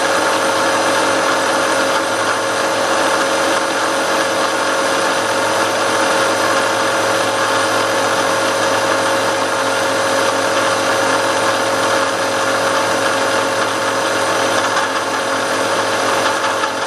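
Milling machine running steadily, a constant mechanical hum made of several steady tones over a haze of noise.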